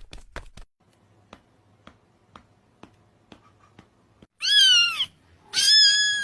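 A cat meowing twice: a short call, then a longer one. Before the meows there are quick taps, then softer ticks about twice a second.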